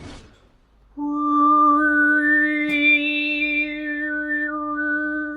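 Female overtone singing: one held drone note starting about a second in, with a single strong overtone above it tracing a melody that steps up and then back down.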